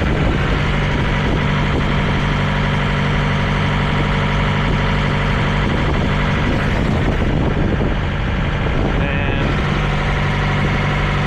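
Diesel semi-truck engine idling steadily, a low even drone.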